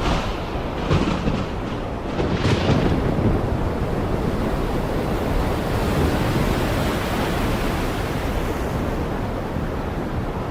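Heavy rain pouring down, a steady dense hiss with a low rumble underneath, a little brighter for a moment twice in the first few seconds.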